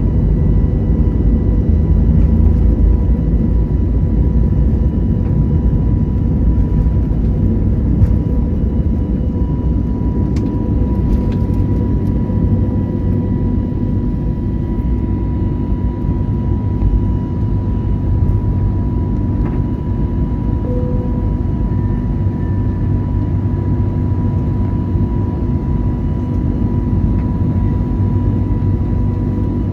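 Airbus A321neo cabin noise: a steady, even rumble with a faint constant whine through it.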